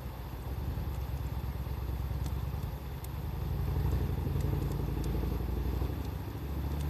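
Wood fire crackling, with a few sharp pops, over a low rumble that grows louder about halfway through.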